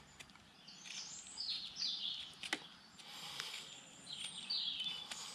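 Small birds chirping in the background: several short falling chirps in two spells, about a second in and again near the end, with a couple of faint ticks in between.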